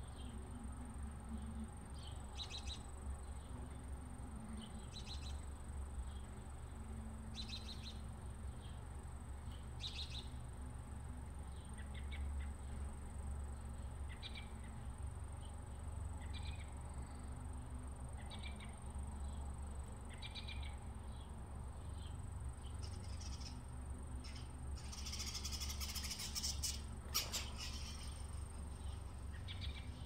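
Small birds chirping, short high calls repeated every couple of seconds, over a steady low rumble. A brief louder hiss comes near the end.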